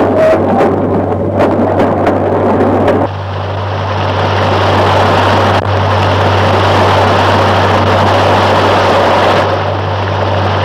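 Steam train running, heard as a steady rushing noise that takes over about three seconds in, under a constant low hum.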